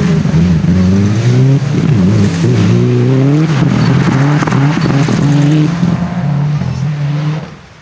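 Rally car engine revving hard and changing up through the gears several times, each gear a rising pitch, then the sound falls away sharply near the end.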